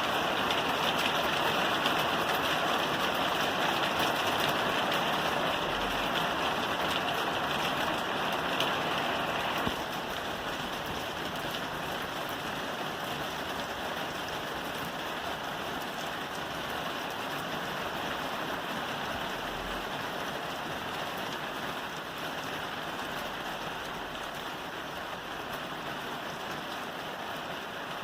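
Steady rain falling on a roof, a dense, even hiss. About ten seconds in it suddenly drops to a softer level and carries on steadily.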